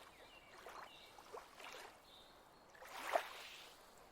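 Soft water sloshing and lapping, a gentle swish about once a second with a louder splash about three seconds in.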